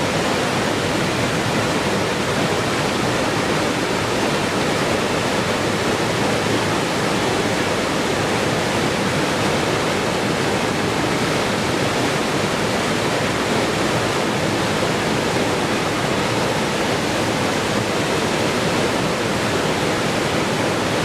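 Rushing water, a steady, even hiss with no breaks or changes.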